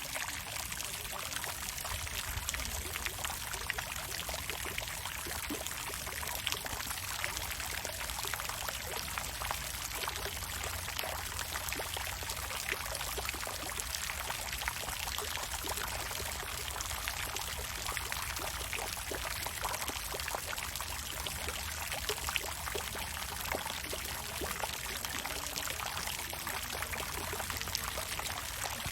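Water fountain splashing steadily: falling water pours and patters into a pool, with a dense spray of small droplet splashes over a low rumble.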